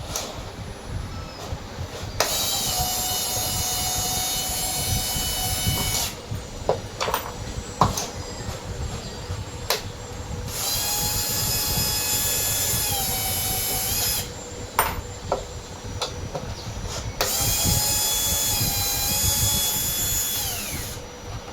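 Power drill running in three bursts of three to four seconds each, a steady high whine that drops in pitch as each burst winds down. Short clicks and knocks of parts being handled fall in the gaps between the bursts.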